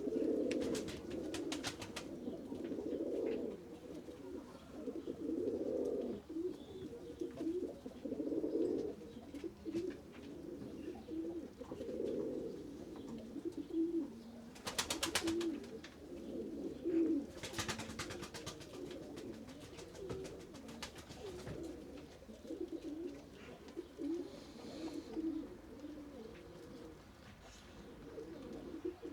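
Several pigeons cooing over and over, low, overlapping coos. A few short spells of rapid clicking or clattering break in: near the start, about halfway through and a little after.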